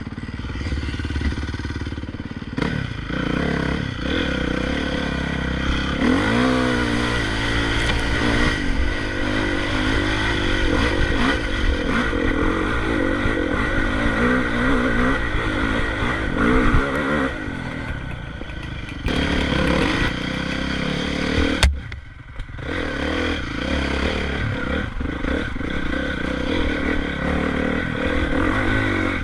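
Motocross bike engine running hard and revving, its pitch climbing and falling with the throttle; the note cuts out briefly about two-thirds of the way through, then comes back.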